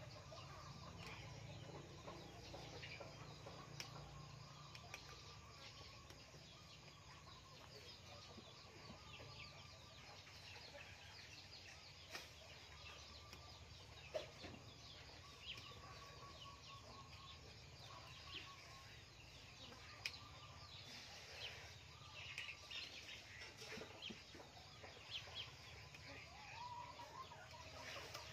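Near silence with faint bird calls in the background and scattered soft clicks.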